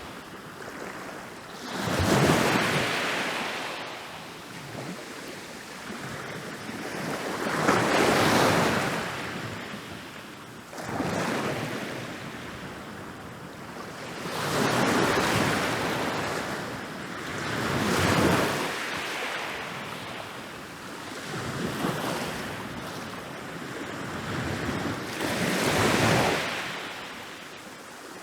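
Ocean waves breaking on a beach, each surge of surf swelling and then washing back, about every three to four seconds.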